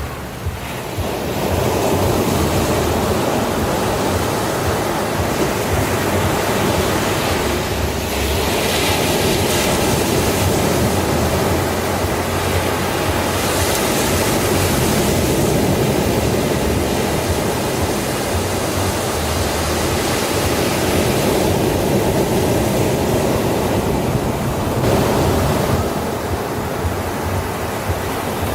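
Sea waves breaking on a beach: a continuous wash of surf, with a few harsher, louder breaks along the way.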